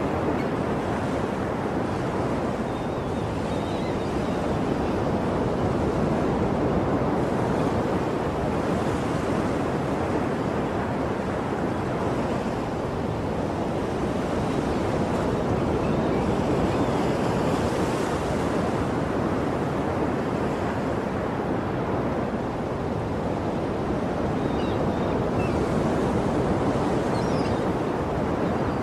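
Sea surf breaking on rocks: a steady rush of waves that swells and eases slowly.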